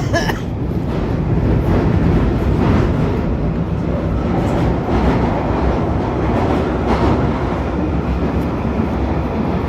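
London Underground Northern line train running between stations in the tunnel, heard from inside the carriage: a steady, loud rumble of wheels on rail with a few faint clicks.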